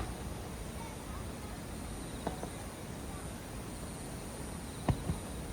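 Scattered sharp firework bangs, with two close together near the end, over a steady high insect trill.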